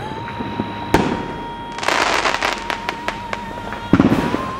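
Fireworks going off: a single sharp report about a second in, a dense stretch of crackling around two seconds in, and another burst of reports near the end.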